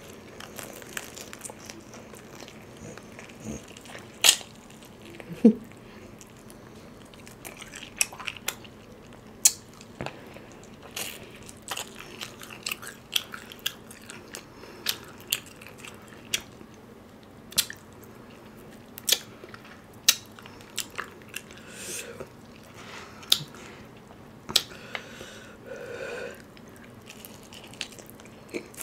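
Close-miked eating sounds: crispy fried chicken being bitten and chewed, with irregular sharp crunches and wet mouth noises.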